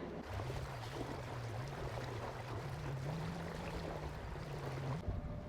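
Sailboat under way: water rushing along the hull, with a low hum that slowly wavers up and down in pitch.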